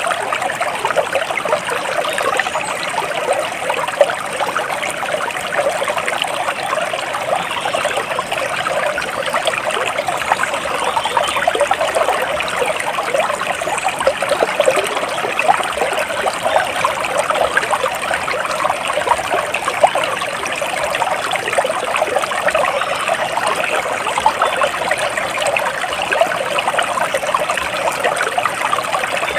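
Water trickling and babbling steadily in a small stream, a continuous bubbling splash without let-up.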